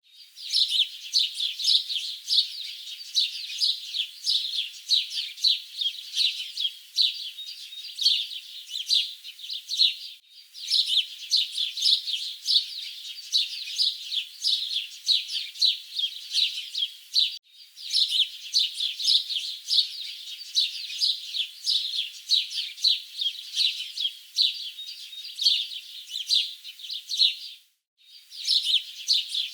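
Many small birds chirping together in a dense, continuous chatter, broken by three brief gaps where the recording cuts.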